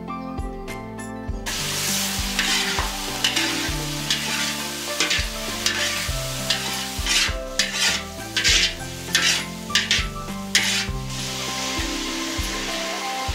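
Food sizzling as it fries in a pan, starting about a second and a half in, with a run of quick stirring strokes against the pan in the middle. Soft background music plays underneath.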